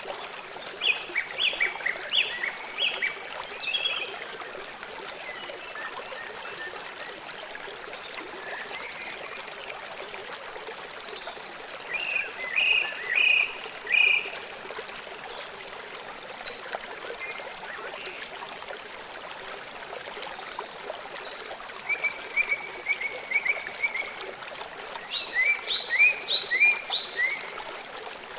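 Steady running water from a stream, with an animal's series of short, high, repeated calls heard in four spells, a few notes each.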